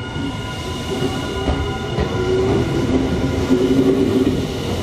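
Electric commuter train running along a station platform: wheels rumbling on the rails under a steady electric whine, getting a little louder toward the end.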